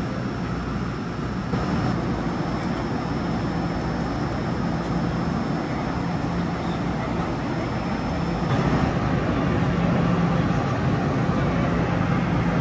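Taiwan Railway train running with a steady rumble and low hum. It grows louder about a second and a half in and again around eight and a half seconds.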